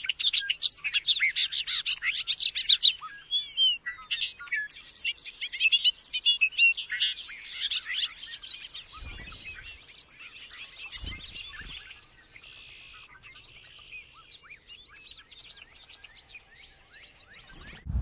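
Many birds chirping and calling at once, rapid overlapping high chirps and short whistled notes. They are loudest for the first eight seconds or so, then thinner and fainter, and stop abruptly near the end.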